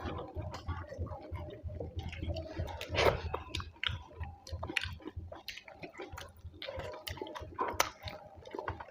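Close-miked chewing of a mouthful of rice and curry, with irregular wet smacks and small clicks of the mouth; a louder smack comes about three seconds in and another near the end.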